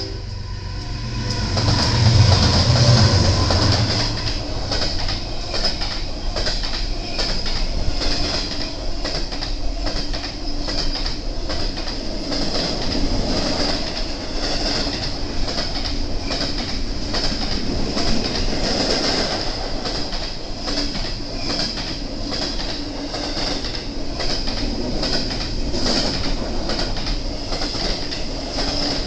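A BNSF freight train passes close by: its horn cuts off about a second in, the locomotives rumble past loudest just after, then the cars roll by with a steady run of wheel clicks over the rail joints and a constant high-pitched wheel squeal.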